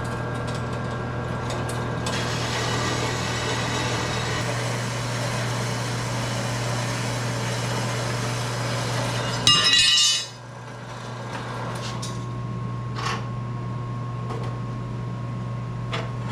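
Portable bandsaw running with a steady motor hum while it cuts through steel angle iron for several seconds. Near the middle there is a brief loud metallic clatter as the cut finishes, and the saw then runs on unloaded.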